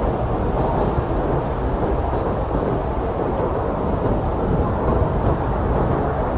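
Strong blizzard wind, a steady low rumbling rush with no gusts standing out.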